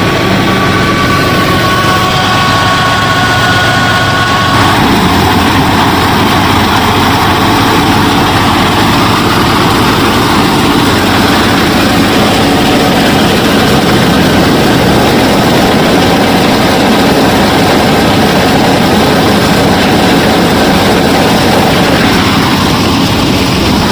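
A DIY miniature combine harvester and thresher running steadily, a loud dense machine noise. A steady whine over it stops about five seconds in.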